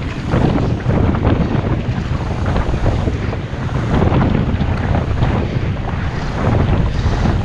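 Strong wind buffeting an action camera's microphone, rising and falling in gusts, with water sloshing around a kayak underneath.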